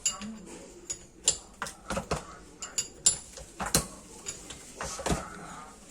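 Irregular metallic clicks and knocks, about a dozen sharp strikes at uneven spacing: tools and metal parts of a sugarcane press being handled during repair.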